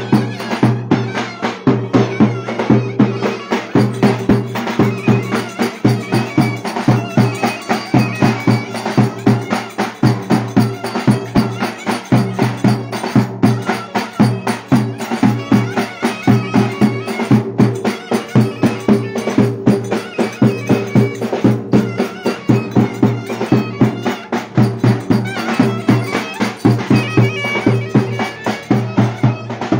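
Traditional folk dance music: a reedy wind instrument plays a held drone-like melody over a steady, driving drum beat.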